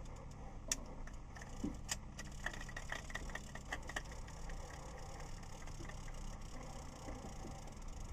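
Steady low hum of the boat's electric trolling motor, with scattered sharp clicks and a run of light clicks about two to four seconds in from the fishing reel as a hooked catfish is reeled in.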